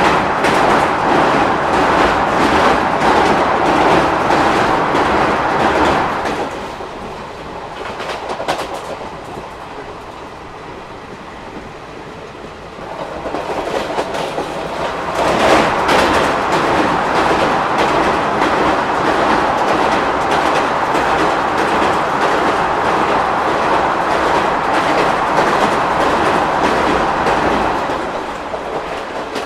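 ICF passenger coach running at speed on the rails: a steady rumble with rapid clickety-clack of the wheels. About six seconds in it drops quieter for several seconds, then comes back up with a brief loud burst.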